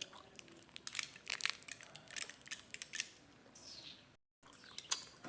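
Faint, scattered clicks and crinkling, like small objects or packaging being handled, with a brief total dropout about four seconds in.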